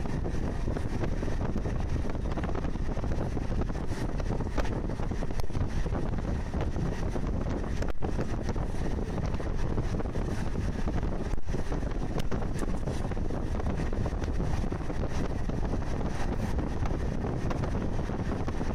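Indian Railways passenger train running at speed, heard at an open carriage window: a steady rumble with a rush of air and wind buffeting the microphone.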